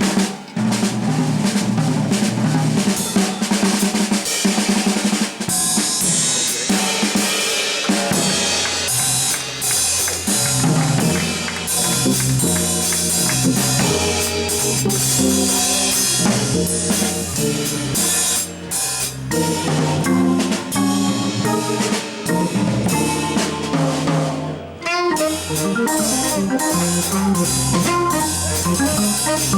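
Live jazz with the drum kit to the fore, busy snare, cymbal and bass drum work. From about eight seconds in, an organ walks a stepping bass line underneath.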